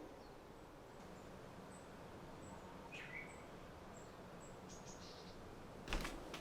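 Quiet outdoor ambience with a bird repeating a short, high chirp about every second, plus one lower call about three seconds in. A quick clatter of knocks starts near the end.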